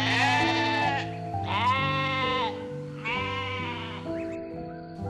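Sheep bleating three times, each bleat about a second long, over background music.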